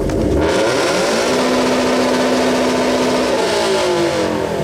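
2013 Scion FR-S's flat-four engine revved hard through its exhaust. It climbs quickly for about a second, holds steady at high revs for about two seconds, then drops back toward idle near the end.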